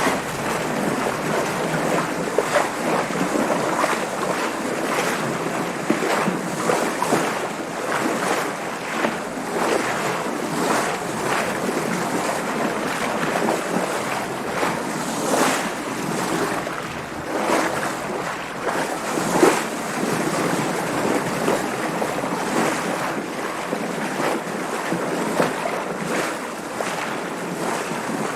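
Water splashing and sloshing against a sailing boat's hull, with wind noise on the microphone. The splashes come in frequent short surges over a steady wash.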